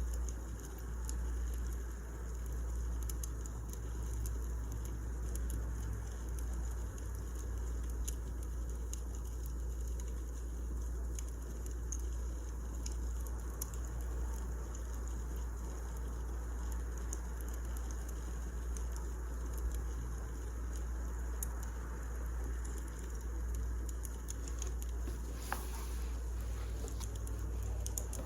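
Wood fire crackling: many small irregular pops and snaps over a steady low rumble, with one slightly louder crackle near the end.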